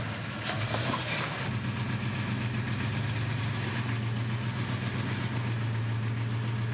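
Off-road 4x4's engine idling steadily at low revs with an even, unchanging hum.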